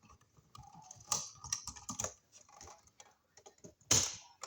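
Irregular small clicks and taps of hand tools and receptacle parts being handled during wiring work, with one sharper, louder click about four seconds in.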